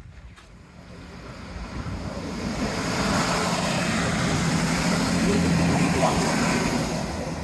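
A train passing close by. The rush of its wheels and the hum of its engine swell to a peak in the middle and ease off near the end, with no horn sounded.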